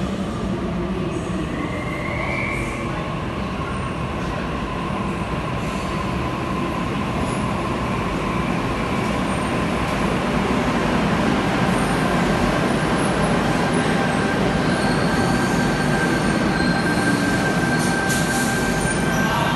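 Electric passenger train moving along the underground platform, a continuous rumble with a steady high-pitched wheel squeal whose pitch steps up about halfway through. The sound grows slightly louder in the second half.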